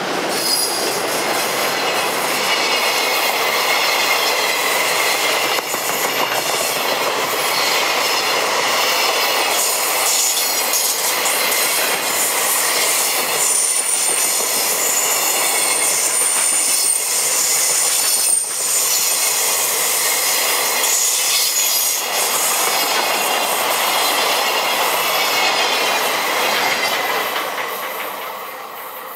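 Freight train's container flatcars rolling past close by: continuous wheel-on-rail noise with high-pitched wavering squeal tones. It fades away near the end as the last wagons pass.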